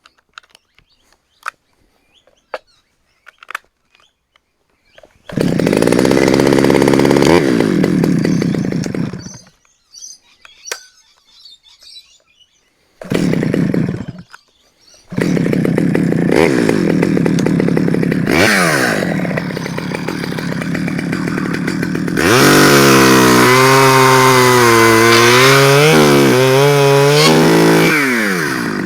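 A few light clicks and knocks, then a Stihl 009L two-stroke chainsaw starts about five seconds in, runs for about four seconds and stops, catches briefly again, then restarts and keeps running. Over the last several seconds its engine speed rises and falls again and again. This is a test run after its bar oiler was cleared of sawdust.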